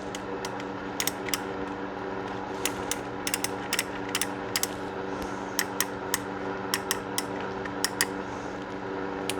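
Irregular sharp metallic clicks from the action of a .22 revolver being worked and reassembled after cleaning, over a steady low hum.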